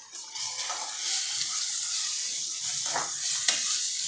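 Soaked split moong dal sizzling in hot oil with fried onions in a kadhai, stirred with a metal ladle. The sizzle picks up about a third of a second in, and the ladle knocks against the pan a couple of times about three seconds in.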